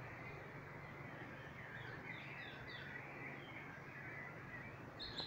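Small birds chirping and twittering in the trees over a steady background hiss; a higher, repeated call starts near the end.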